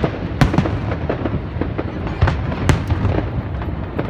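Fireworks display: a dense, continuous run of bangs and crackles, with a few sharper bangs standing out about half a second in and twice a little past the middle.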